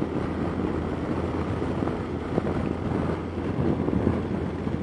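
Steady wind rush and wet-road noise on a Yamaha FJR1300 motorcycle riding through heavy rain, with the engine running evenly underneath.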